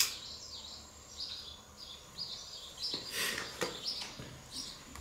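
A bird chirping over and over: short high chirps, about two a second. A brief scuffing noise comes about three seconds in.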